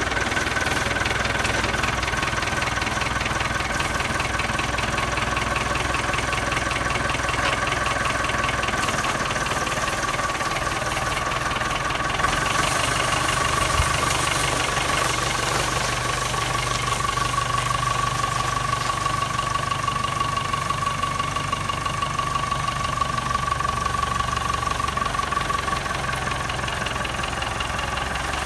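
Nuffield 10/60 tractor engine running steadily, with a steady high whine over the engine note.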